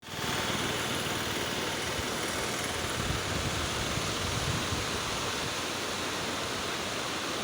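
Steady rushing of a stream swollen by heavy rainfall, running in flood.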